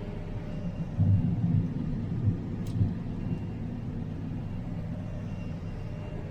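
Steady low engine rumble heard from inside a vehicle cab. It swells with a few heavy low thumps between about one and three seconds in, with a single sharp click in the middle.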